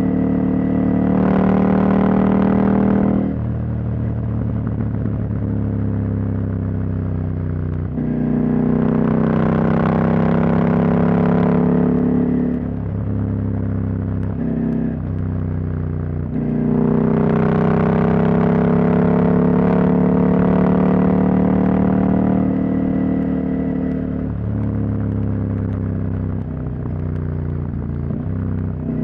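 Husqvarna Norden 901's parallel-twin engine with its catalytic converter removed, riding at road speed: it pulls harder three times, the pitch rising slowly, and eases off in between, with a few steps in pitch that sound like gear changes.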